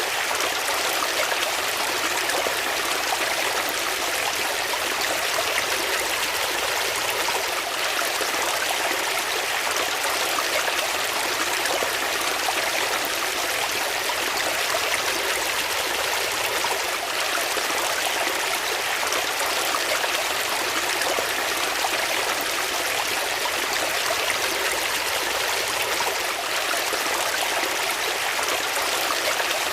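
Water flowing steadily, a continuous even rush like a stream or small cascade, with no changes.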